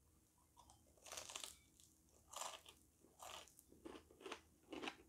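Faint crunching of a person chewing crispy fried chicken skin, about six short crunches starting about a second in, spaced roughly half a second to a second apart.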